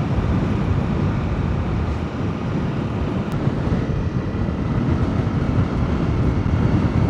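Steady wind roar in a motorcycle helmet microphone while riding a dirt track, with the motorcycle's engine and tyre rumble underneath.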